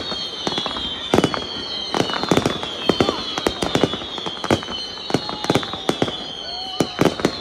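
Fireworks going off: many sharp bangs and pops at an irregular pace, with clusters of the loudest about a second in and near the end. Behind them, high whistling tones keep gliding slowly downward and overlapping.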